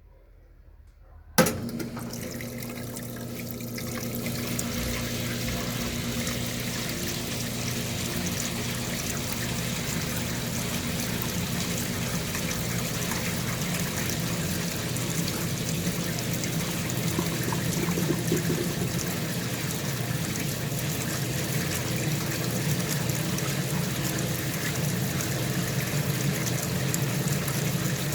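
White-Westinghouse washing machine spinning: a steady motor hum with water rushing out as it drains. It starts suddenly with a click about a second and a half in and slowly grows louder.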